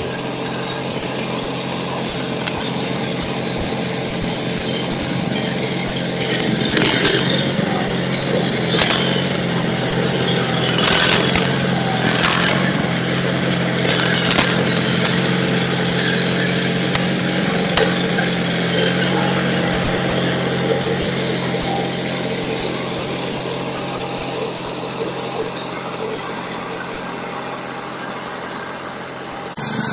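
Sears Suburban garden tractor engine running steadily at working speed while driving a snowblower attachment, with bursts of hiss in the middle stretch.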